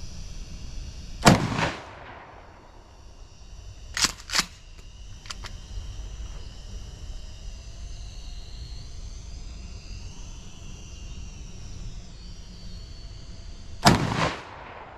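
Two shots from a Mossberg 590A1 pump-action shotgun, one about a second in and one near the end, each trailing off into an echo. Two quick sharp clacks a few seconds after the first shot are the pump being worked. Under them runs the high, wavering whine of a small quadcopter drone's propellers in flight.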